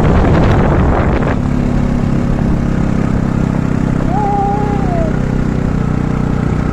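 Motorcycle engine running steadily while riding, with wind on the microphone. The sound is rough and noisy for about the first second, then settles into an even engine note. A brief tone that rises and then falls is heard about four seconds in.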